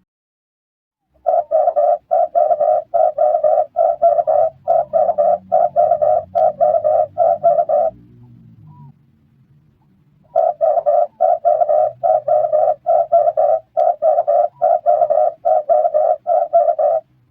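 Red turtle dove calling: rapid, evenly repeated coos, about three a second, in two long bouts separated by a pause of a couple of seconds.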